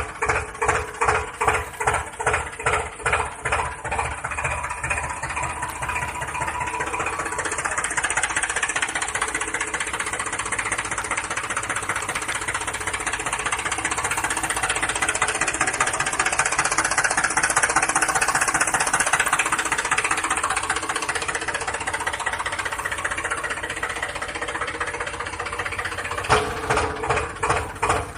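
A toy vehicle's engine sound, a rhythmic chugging at about three beats a second. After about five seconds it gives way to a denser, steady whirring that swells in the middle, and the chugging comes back near the end.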